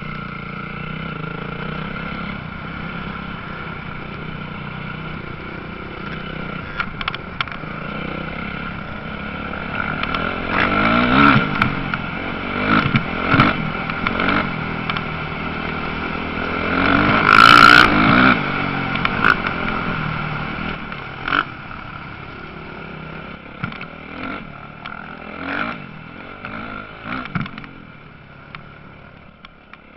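Motocross bikes racing, their engines revving up and down. The engines grow loud in the middle as bikes pass close, loudest about two-thirds of the way through, then fade to distant revs near the end.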